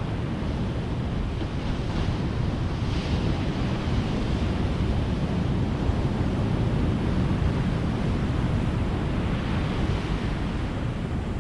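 Ocean surf: a steady wash of breaking waves, with the hiss of the surf swelling about three seconds in and again near the end.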